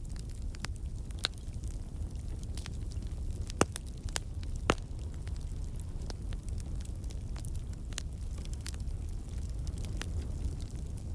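Wood campfire burning: a steady low rumble of flame with scattered sharp crackles and pops from the burning logs, two of them louder, close together about four seconds in.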